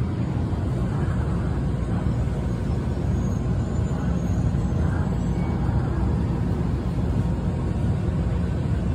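Tokyo Metro Marunouchi Line subway train running through the station, a steady low rumble with no sudden sounds.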